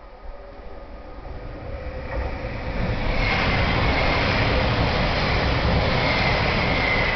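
Passenger train approaching along the platform, its rumble growing louder over the first three seconds, then running loud with a steady high whine that drops a little in pitch near the end.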